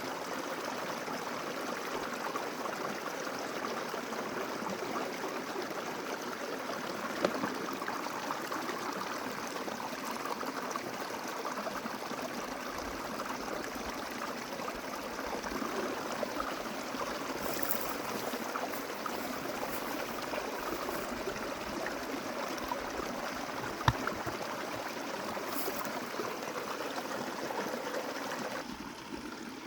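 Snowmelt mountain creek running steadily, with two brief sharp knocks, one early and one about two-thirds of the way through.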